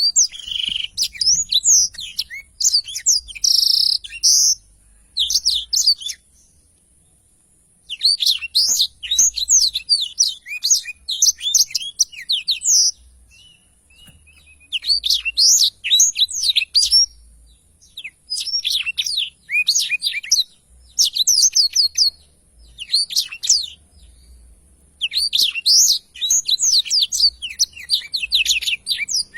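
Black-throated canary (blackthroat) singing its long rolling song: rapid, high twittering phrases of several seconds each, broken by short pauses.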